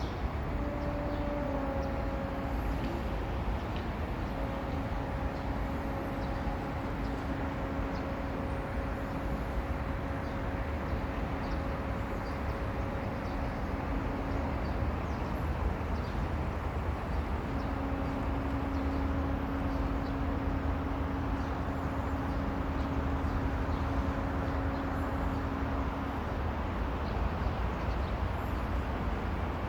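Steady rush of stream water with a low traffic rumble, under a steady droning hum that drops out about halfway through and comes back a few seconds later.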